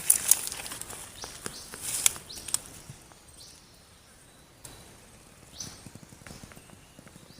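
Crisp rustling and crackling with a few sharp clicks, loudest in the first two and a half seconds, then fainter, scattered rustles.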